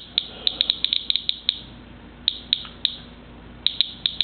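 Inspector Geiger counter clicking at random intervals, about four clicks a second, each click a detected particle from a rain-collected sample. It is reading an elevated count of a couple of hundred counts a minute.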